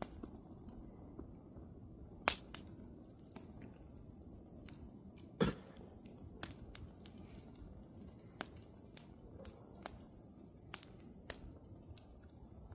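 Wood campfire crackling: scattered sharp pops and snaps over a low steady rumble of the burning fire, with two louder pops about two and five and a half seconds in.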